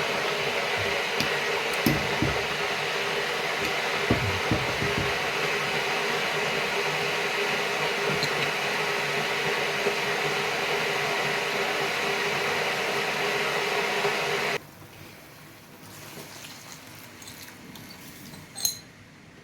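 Pot of curry chicken feet cooking down in water and seasoning, a steady hiss with a few low pops early on. The hiss cuts off suddenly about fourteen seconds in, leaving a quiet background with a single clink near the end.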